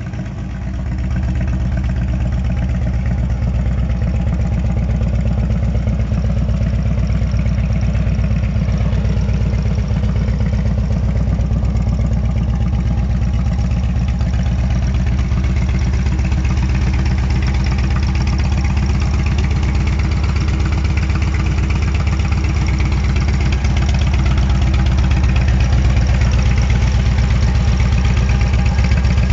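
Harley-Davidson Electra Glide Ultra Classic's air-cooled V-twin engine idling steadily, a little louder near the end.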